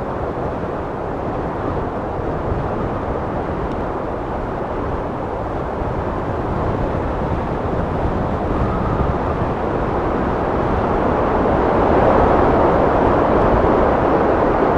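Wind blowing in a steady rushing noise, gusting gradually stronger over the last several seconds.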